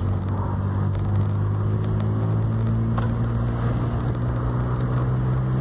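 Volkswagen up! TSI's turbocharged 1.0 three-cylinder engine pulling under throttle, a steady drone whose pitch stays nearly level.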